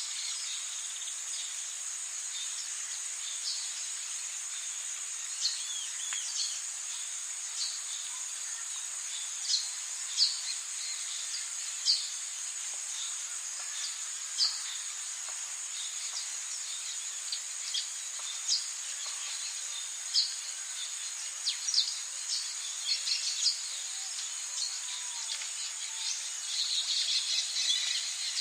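Rainforest insects and birds: a steady high insect drone with short chirps scattered irregularly over it, becoming a denser run of chirping near the end.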